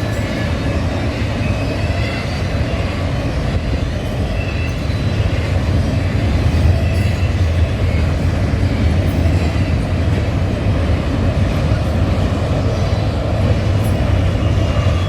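A train rolling past close by: a steady, loud rumble of wheels on rail, with faint high wheel squeal now and then.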